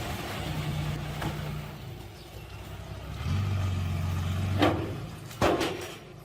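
Diesel engine of heavy earthmoving machinery running, its pitch stepping up and down with the throttle. Two sharp knocks come about a second apart near the end.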